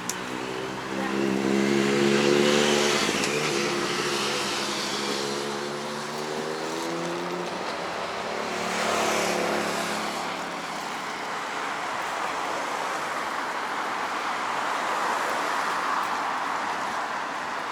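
Road traffic: a motor vehicle's engine passes, loudest about two seconds in, with a second vehicle going by about nine seconds in, over a steady traffic hum.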